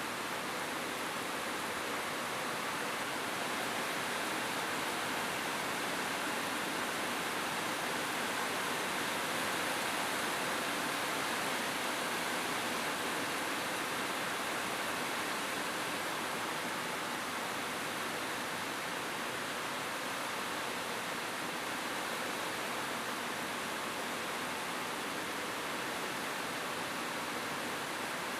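Steady rain falling on a roof, an even hiss with no single drops standing out and no thunder.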